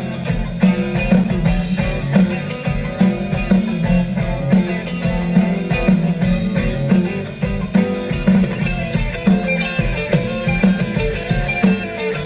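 Live band playing an instrumental passage between sung verses, with guitar, bass and drum kit keeping a steady beat.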